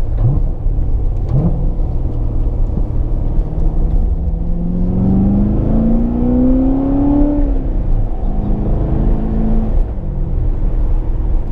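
2016 Corvette Stingray's 6.2-litre LT1 V8 running through its Z51 dual-mode exhaust with a heavy low rumble. The engine note climbs steadily for a few seconds in the middle as it accelerates, then drops back.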